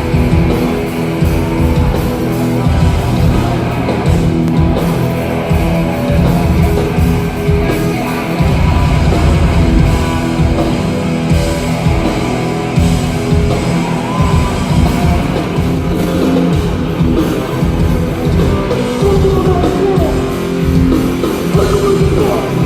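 Live hardcore band playing loud distorted guitar, bass and drums, with yelled vocals over it.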